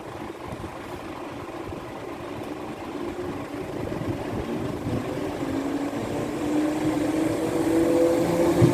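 Electric train accelerating, its motor whine rising steadily in pitch and growing louder.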